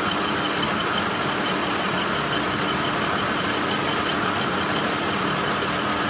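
A machine running steadily, an even hum with a faint fast regular ticking over it.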